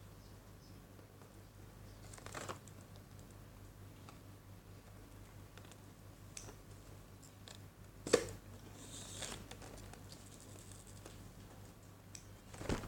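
Model-airplane packaging being handled during unboxing: a few sharp clicks and knocks, the loudest about two thirds of the way through, with a short crinkle of packaging just after it, over a quiet room.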